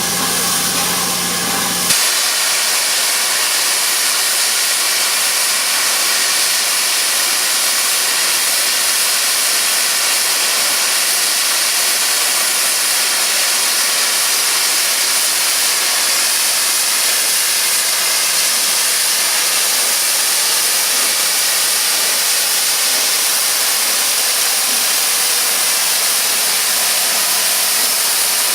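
Steam locomotive 60163 Tornado, a Peppercorn A1 Pacific, with steam escaping in a loud, steady hiss. It begins about two seconds in, after a low steady engine hum that cuts off abruptly.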